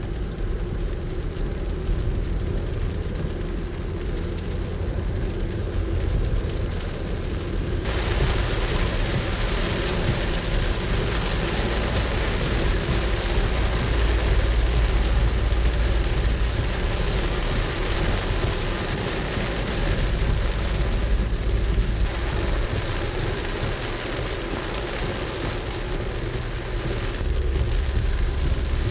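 Rain on a car's roof and windscreen, heard inside the moving car over a steady low rumble of road and engine noise. The rain hiss gets suddenly louder about eight seconds in.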